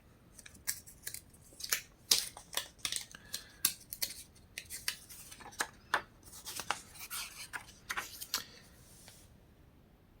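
Paper pages of a printed catalog being handled and turned: a quick, irregular run of crinkles and rustles that stops about nine seconds in.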